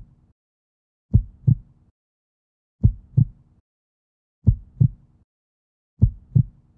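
Heartbeat sound effect: deep, muffled lub-dub double thumps, a pair about every one and a half to two seconds, four times.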